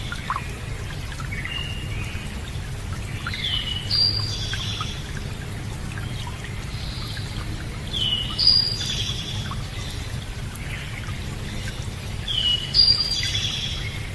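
A songbird repeating the same short, high song phrase three times, about every four and a half seconds, over a steady rush of running water.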